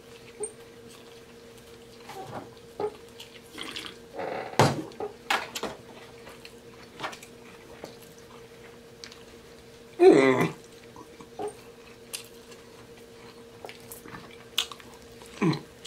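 Close-miked chewing and lip-smacking while eating a burger: scattered wet clicks and smacks, with a louder burst about ten seconds in. A faint steady hum runs underneath.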